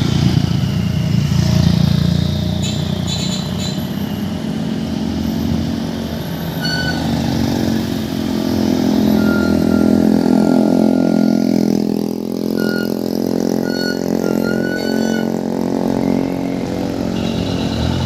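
Diesel truck engine running through a Takalar-style 'cung' exhaust, its note rising and falling as it is revved. A few short high beeps sound in the middle.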